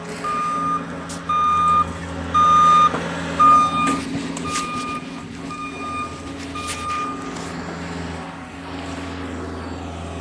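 Reversing alarm of a heavy truck or snow-clearing vehicle beeping about once a second over its steady engine running; the beeps fade after about four seconds and stop around seven seconds in.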